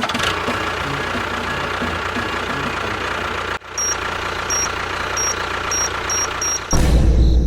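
Engine running steadily, with a string of short high beeps from about four seconds in, then a loud low rumble near the end.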